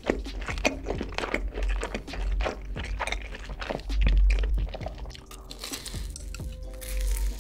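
Close-miked crunchy chewing of fried chicken: irregular crunches and wet mouth clicks, mukbang-style.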